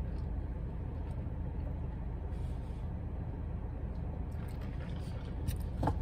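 Steady low rumble heard inside a car's cabin, the hum of an idling car engine, with a few faint clicks near the end.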